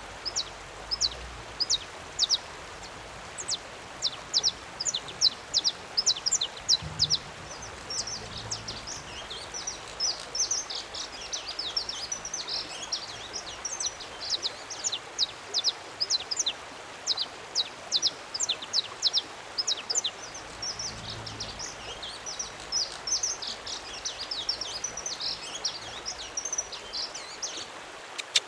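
A songbird singing a long, fast run of short, high notes that each slide downward, over faint background hiss.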